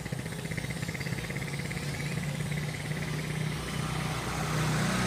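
A motor vehicle engine running steadily with an even low hum, growing a little louder near the end.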